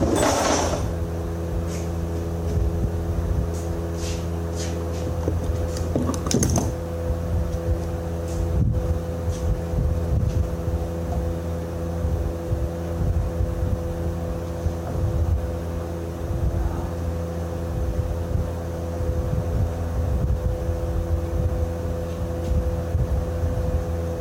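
An engine running steadily at a constant speed, with a loud metallic clank at the start and another about six and a half seconds in, plus a few lighter clinks of tools on metal.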